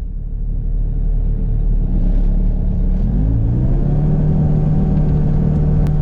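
Kubota U55 mini excavator's diesel engine running, its speed rising to a higher steady throttle about three seconds in.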